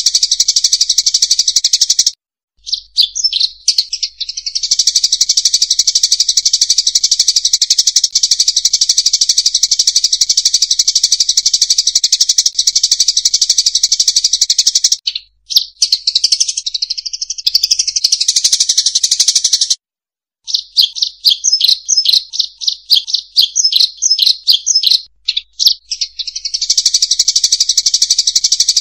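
Emprit sawah (rice-field munias) twittering en masse in a bird-lure recording: a loud, dense, high chatter broken by a few short gaps, with a stretch of separate quick chirps, about four a second, about two-thirds of the way through.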